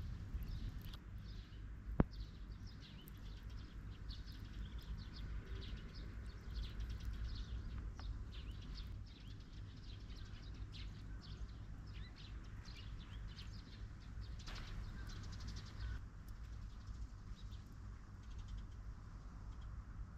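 Outdoor ambience of small birds chirping and singing in short repeated calls over a steady low rumble. A single sharp click sounds about two seconds in.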